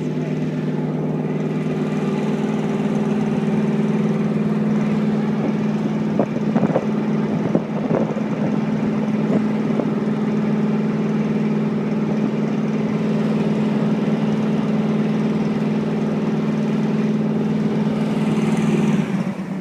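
An engine running steadily under load, with a few brief knocks or rattles about a third of the way in; the engine note drops off suddenly near the end.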